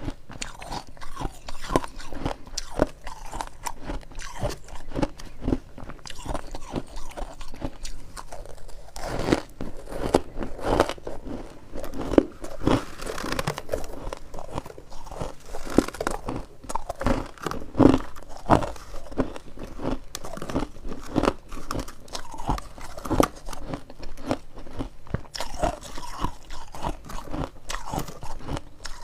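Dense freezer frost being bitten and chewed, one crisp crunch after another, louder and denser through the middle stretch.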